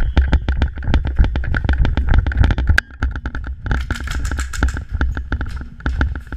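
Airsoft guns firing, sharp clicking shots coming several times a second in uneven strings, over a low rumble of handling and movement on the camera.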